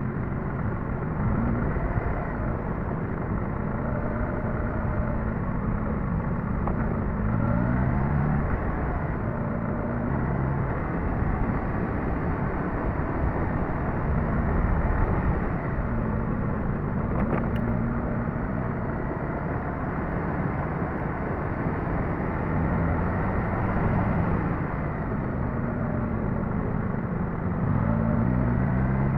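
Suzuki GSX-S1000GT's inline-four engine under way, its note rising and falling with the throttle, under steady wind and road noise.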